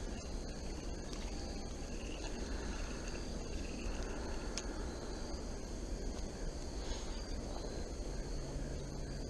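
Insects buzzing steadily in a high, even drone over a low rushing background, with a single sharp click about halfway through.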